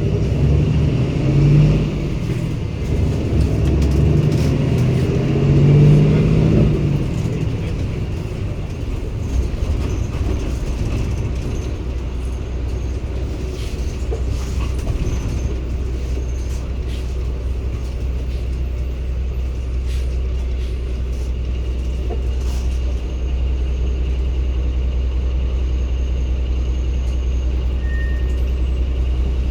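Cummins ISB Euro 6 diesel engine of a 2016 Daewoo NEW BS090 bus running. For the first seven seconds or so it is louder, its pitch rising and falling as it pulls; then it settles into a steady low drone.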